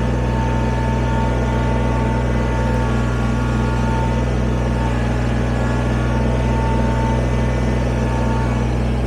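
Kubota BX23S sub-compact tractor's three-cylinder diesel engine running steadily while the tractor drives in high range, with a steady high whine over the engine.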